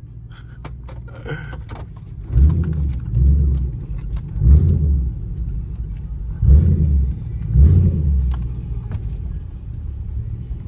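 Mercury Grand Marquis 4.6-litre V8 on a pop tune, idling with a low rumble and blipped in about five short throttle revs, each a deep burst lasting about half a second, some in quick pairs. Keys jangle in the first couple of seconds.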